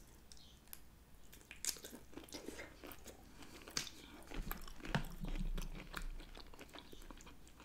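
Close-miked mouth sounds of a person biting and chewing cooked shrimp: many small wet clicks and crunches, with a low rumble for about a second around the middle.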